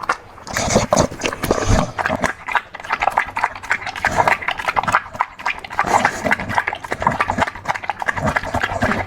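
A dog eating a wet meal of mutton and mushroom soup: fast, irregular wet chewing, smacking and lapping.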